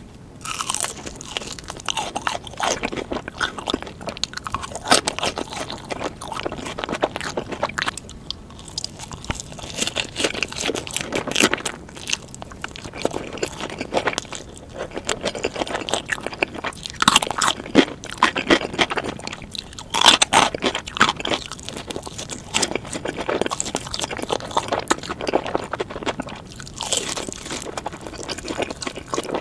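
Close-miked crunching bites and chewing of sweet Korean chicken, played at double speed, so the crackles come thick and fast with no pauses.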